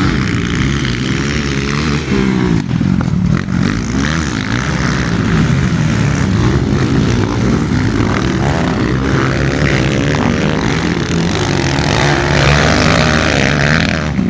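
Several motocross motorcycle engines revving, their pitches rising and falling and overlapping one another.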